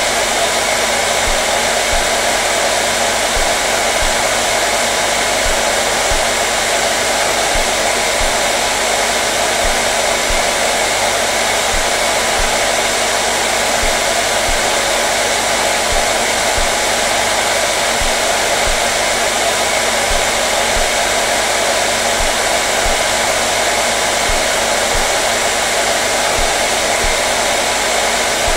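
Hair dryer running steadily: an even, unbroken rushing of air with a motor hum and no change in speed.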